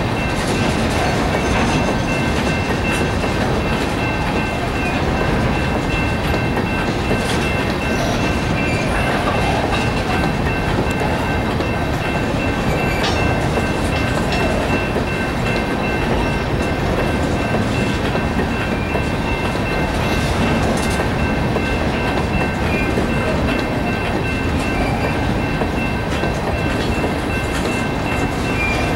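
Freight train of steel gondola cars rolling steadily through a level crossing: a continuous rumble of wheels on rail with occasional clicks. The crossing's General Signals Type-2 electronic bell rings above it as a steady high tone.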